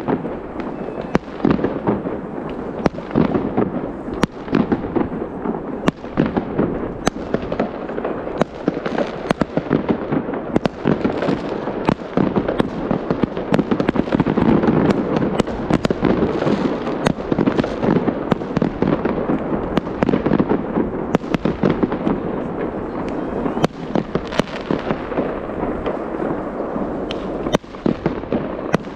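New Year fireworks going off in a rapid, unbroken barrage of bangs and crackles, with many sharp reports over a steady crackling din.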